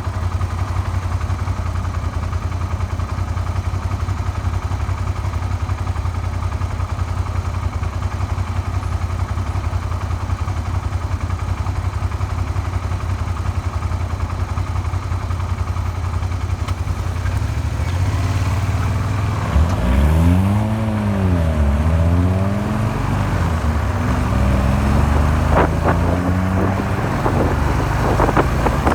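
Suzuki SV400's 90-degree V-twin engine idling steadily, then revved up and let fall back twice about two-thirds of the way in, followed by smaller rises in revs. The engine is running after a makeshift crankshaft repair and is known to knock.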